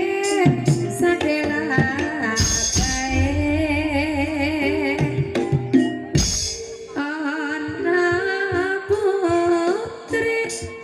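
Javanese gamelan-style Ebeg accompaniment: a female singer holds wavering, melismatic lines over struck metallophones and drum, with two heavy low strikes, about two and six seconds in.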